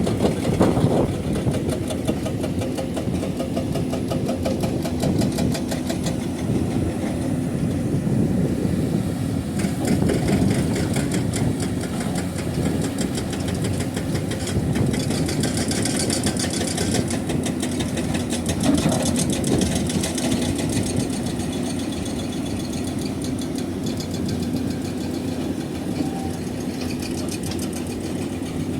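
Excavator's diesel engine and hydraulic breaker working, with a rapid, steady knocking over the engine's running.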